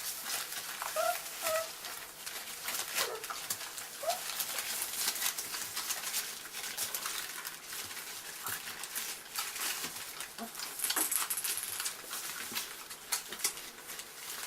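Labrador puppies giving short high squeaks and whimpers, several in the first two seconds and a couple more a few seconds in, over a continual patter of small clicks and rustling.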